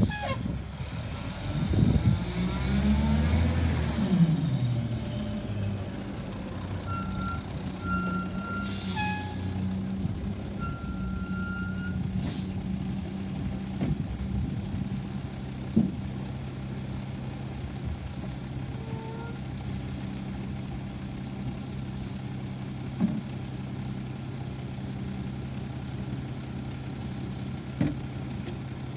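Garbage truck engine running, its note falling over the first few seconds and then settling into a steady low idle hum. A short air hiss comes about nine seconds in, with a few short high beeps around it, and there are occasional light knocks.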